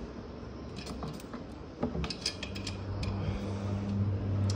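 Light metallic clicks and clinks of a refrigeration gauge-manifold hose and its fittings being handled. About halfway through, a steady low hum starts and carries on.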